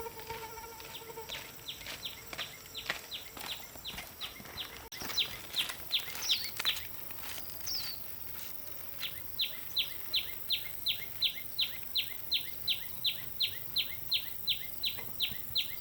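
A bird calling a long, fast series of short down-slurred notes, about three a second, breaking off for a couple of seconds midway before starting again.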